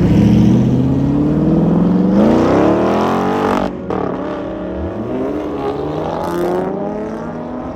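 Car engine accelerating: the revs climb steadily for about three and a half seconds, cut off suddenly, then climb again a second later, as with a gear change.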